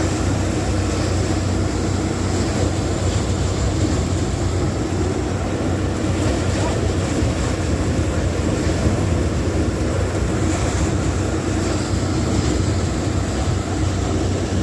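Motorised paddy thresher running steadily, a constant engine drone with a low hum and no let-up.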